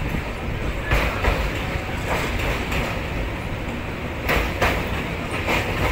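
Train running at speed, heard from aboard: a steady rumble of wheels on the rails, broken by several sharp clacks at uneven gaps as the wheels cross rail joints.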